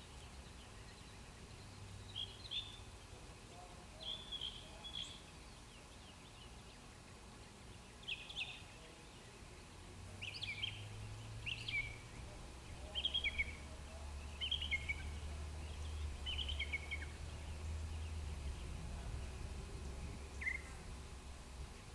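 A bird calling in short, high chirps, one every second or two and thickest in the middle, over a steady low rumble.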